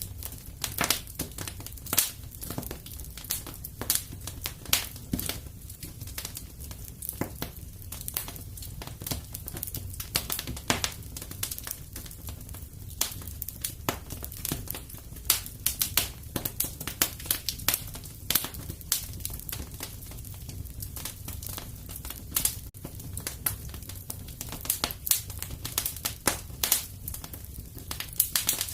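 Fireplace fire crackling: irregular sharp pops and snaps, a few of them louder, over a steady low rumble of the flames.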